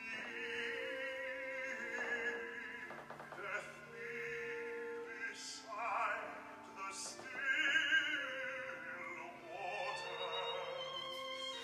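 Classical-style solo singing with a wide vibrato on long held notes, over a sustained instrumental accompaniment.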